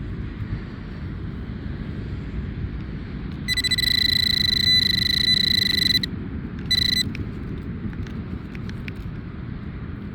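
A Nokta metal detector gives a steady high electronic target tone for about two and a half seconds, starting about three and a half seconds in, then a short repeat about a second later, over wind rumbling on the microphone.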